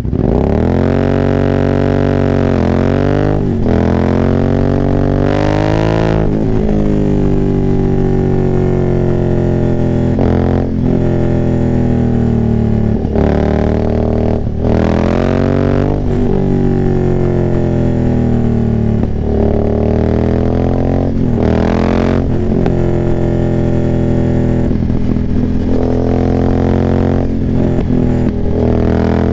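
2019 Aprilia Dorsoduro 900's 90-degree V-twin running through a full Arrow exhaust with the catalytic converter and decibel killers removed, being ridden hard. The revs climb and drop back several times as the rider shifts gears, with longer stretches of steady running between.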